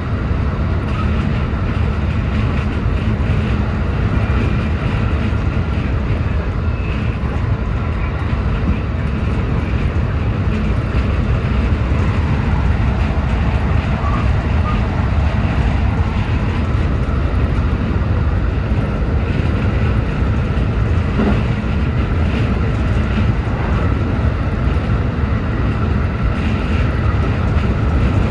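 JR West 223-series electric train running at speed: a steady low rumble of wheels on rails and running gear.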